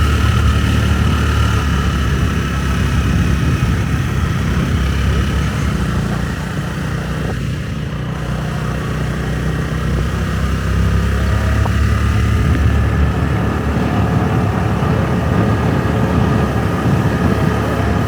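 Motorbike engine running under way, with a heavy low rumble of wind on the microphone. The sound eases briefly about seven seconds in and then builds again.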